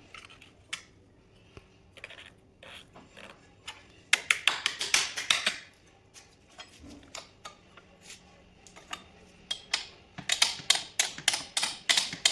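Rapid clicking and tapping of hand tools on metal, in two quick runs starting about four and ten seconds in, with scattered single clicks between.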